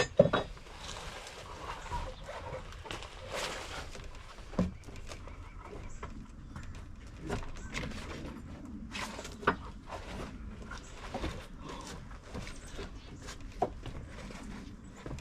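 Irregular knocks and thuds of work on a wooden deck being torn up: a loud cluster at the start, then single sharp knocks every few seconds.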